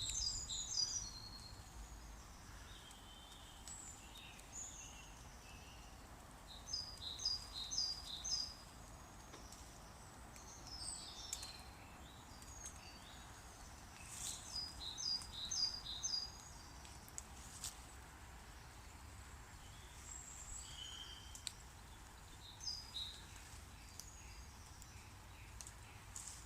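Woodland birdsong: a small songbird sings short phrases of quick, high, falling notes, repeated every few seconds, over faint steady background noise. A few faint clicks come in the middle.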